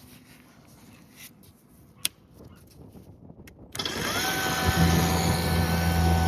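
An electric motor starting up and running: a sudden loud rush about four seconds in, then a whine that rises and settles, and a strong steady low hum.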